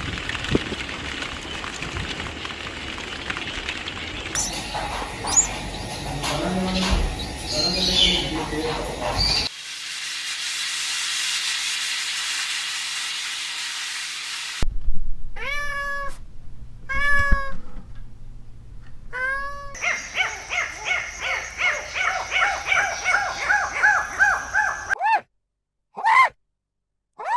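Cat meowing: three separate drawn-out meows about a second apart, then a quick run of shorter mews that cuts off abruptly. Before them come a noisy stretch with scattered calls and several seconds of steady hiss.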